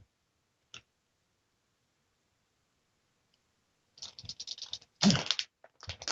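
Near silence with a single click, then a quick run of rattling clicks about four seconds in, with two louder bursts of rattling near the end.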